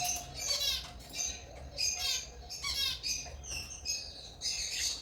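African lovebirds chirping and squawking in a steady run of short, shrill calls, one every half-second or so.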